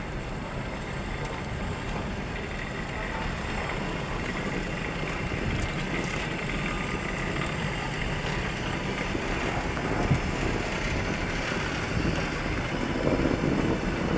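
Passenger coaches of an arriving train rolling slowly past, steel wheels running on the rails with a steady rumble that grows a little louder. A single sharp knock comes about ten seconds in.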